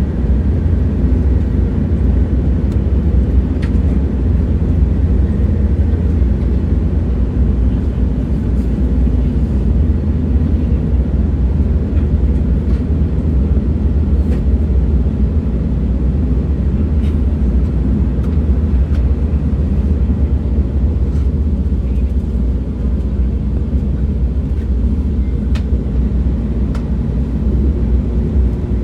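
Train running steadily: a continuous deep rumble, with a few faint clicks scattered through it.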